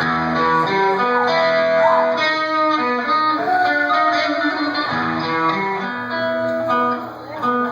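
Live electric guitar picking a melodic line of held notes over a low sustained note.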